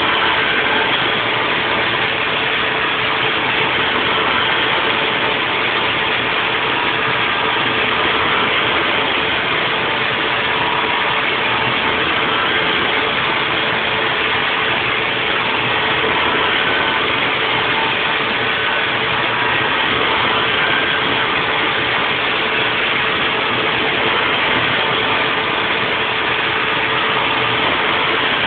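Haas VF4 CNC vertical mill running a 3D machining cycle, a steady machine noise with a held mid-pitched tone and no breaks.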